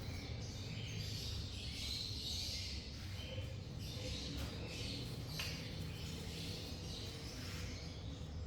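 Parrots chirping and chattering softly in short scattered calls, over a steady low hum.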